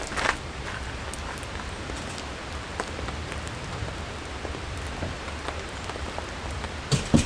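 Steady rain falling, with scattered drops tapping on surfaces; a couple of louder knocks or steps near the end.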